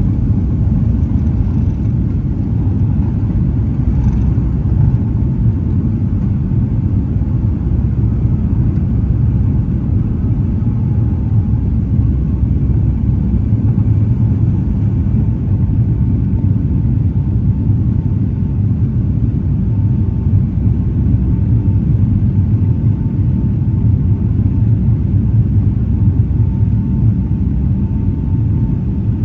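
Steady, loud low rumble of engine and airflow noise inside the cabin of a Boeing 757-200. A faint steady tone comes in over the second half.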